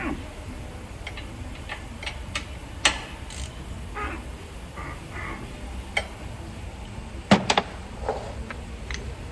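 Scattered clicks and knocks of hand tools and parts being handled during car repair work, with a quick cluster of three sharp knocks about seven seconds in, over a steady low hum.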